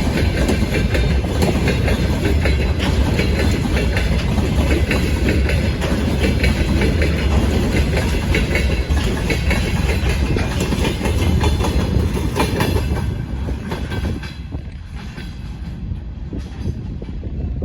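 Freight train rolling past, its wagon wheels clacking rhythmically over rail joints with a heavy rumble. The sound dies away about thirteen seconds in as the train draws off.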